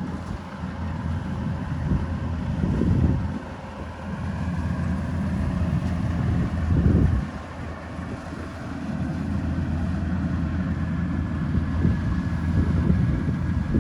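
Kubota DC-105X combine harvester running steadily, a low machine drone that swells louder a couple of times.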